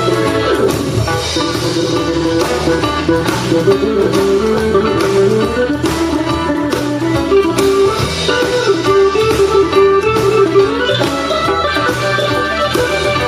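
Live blues band playing an instrumental passage, an electric guitar leading over bass and a steady drum beat.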